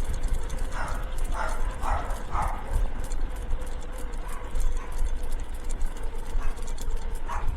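Two dogs running in harness, pulling a wheeled street sled: a steady rolling rumble with a hum, and the dogs' feet ticking quickly on the pavement. A few short sounds from the dogs come between about one and two and a half seconds in.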